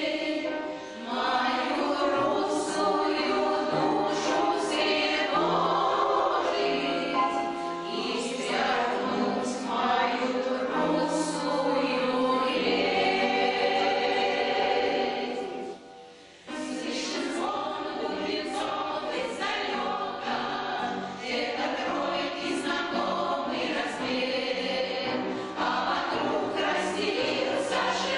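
Amateur choir singing a song in many voices, with a brief break about halfway through before the next phrase starts.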